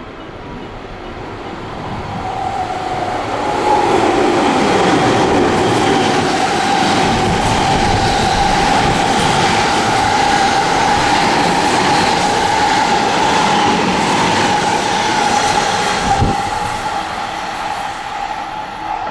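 A JR West electric train passing at speed: its rumble and wheel clatter build over the first few seconds, stay loud with a steady high whine running through them, and fade near the end.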